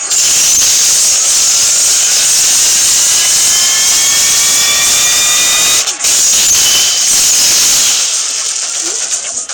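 Beyblade spinning tops whirring in battle: a loud, steady high hiss with a few faint tones rising slowly through the middle and a brief break about six seconds in.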